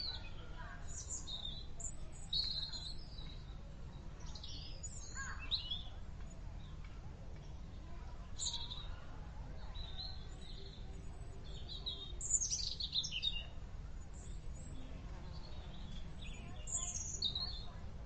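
Small birds chirping in short, high calls, scattered irregularly, over a steady low hum.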